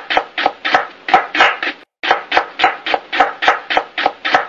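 Kitchen knife chopping vegetables on a cutting board: quick, even strokes about four a second, with a brief pause about two seconds in.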